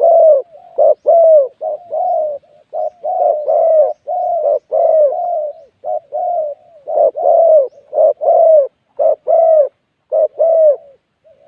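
Spotted dove cooing: a long run of repeated arching coo phrases, one after another, that stops shortly before the end.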